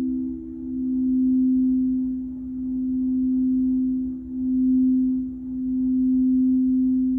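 Crystal singing bowl ringing a sustained low tone, with a fainter second tone just above it; the sound swells and dips in loudness every second or so.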